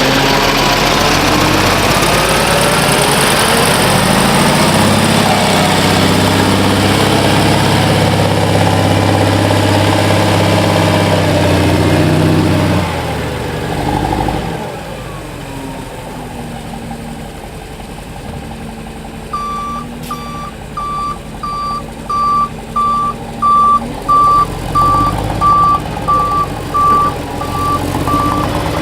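Volvo A25B articulated dump truck's diesel engine running hard, its pitch rising as it pulls, then dropping to a quieter idle about 13 seconds in. About 19 seconds in, its reversing alarm starts beeping steadily, about one and a half beeps a second, over the running engine.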